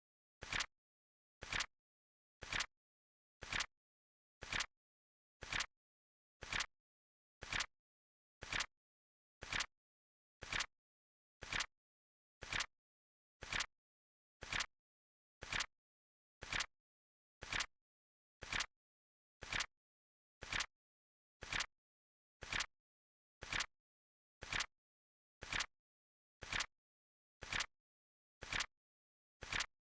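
Flip clock flap clicking once a second, a short sharp click each time with silence between, as the countdown timer's seconds card turns over.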